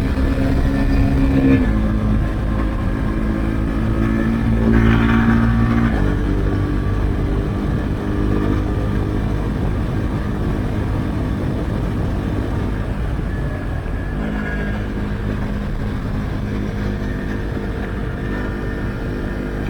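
Husqvarna Svartpilen 401's single-cylinder engine running through an Akrapovic exhaust with the dB-killer removed, under way on the road. The engine note shifts several times: it drops about two seconds in, rises again, drops near six seconds, then runs rougher and less even before a steady note returns about fourteen seconds in.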